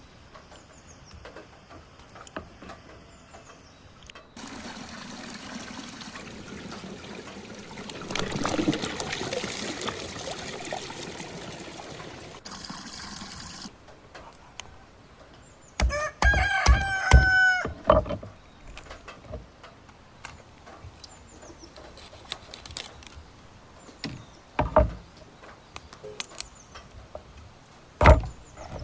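A rooster crowing once, about halfway through, over a few sharp knocks. Earlier there is a long stretch of steady hiss-like noise, and two more knocks come near the end.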